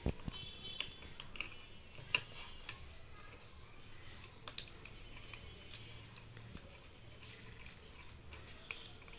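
Screwdriver tightening a screw on a Jack F4 sewing machine's thread tension assembly: scattered small metallic clicks and clinks at irregular gaps, the sharpest about two seconds in.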